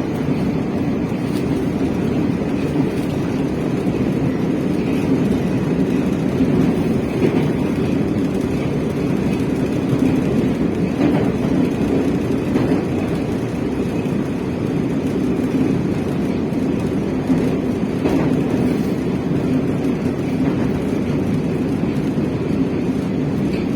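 Metro train running between stations, heard from inside the carriage: a steady rumble of wheels on rails, with a few faint clicks.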